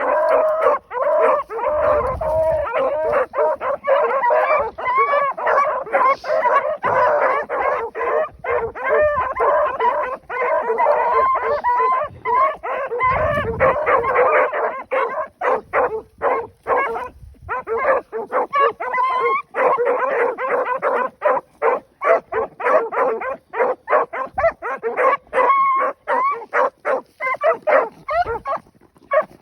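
A pack of rabbit hounds barking on a rabbit's trail. Many dogs bark at once in a rapid, overlapping string, which thins to more separate barks in the second half.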